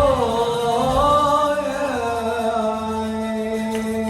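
A man singing an Egyptian-style Arabic tarab song with musical accompaniment. The melody bends through a closing phrase, then settles on one long held final note.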